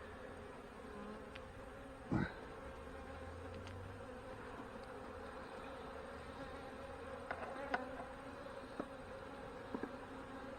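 Honey bees buzzing in a steady hum around an open hive. There is a sharp knock about two seconds in, and a few light clicks near the end.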